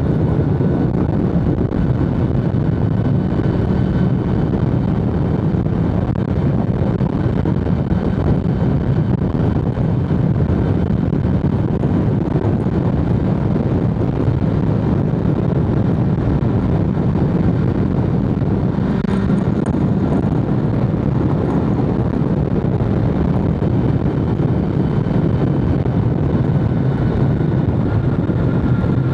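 BMW S1000RR inline-four engine and exhaust running at a fairly steady pace while riding, with no big revs or shifts, over a rush of wind noise.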